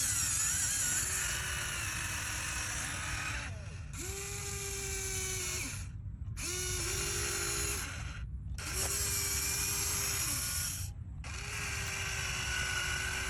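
Small electric motors and plastic gearboxes of mini RC construction vehicles whirring with a steady whine, starting and stopping in about five short runs with brief breaks between.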